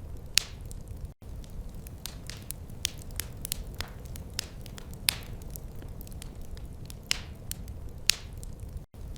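Wood fire crackling: frequent sharp pops and snaps of uneven strength over a low, steady rumble. The sound drops out for an instant twice.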